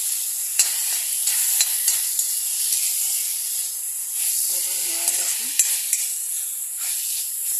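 Greens and potatoes sizzling in hot oil in an iron kadai as a metal spatula stirs them, with ground spices just added; the spatula's scrapes and sharp clicks against the pan come at irregular moments over the steady sizzle.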